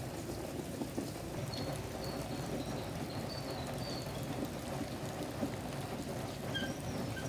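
Steady rain falling on a wet road and vegetation, an even, unbroken patter.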